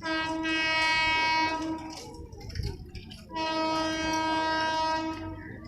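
Locomotive horn of a freight train sounding two long, steady blasts, the second starting about a second and a half after the first ends.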